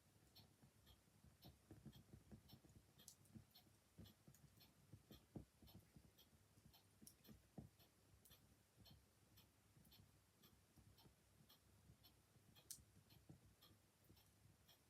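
Clock ticking steadily, about two ticks a second, over a quietly crackling fire with irregular soft crackles and a couple of louder pops near the middle.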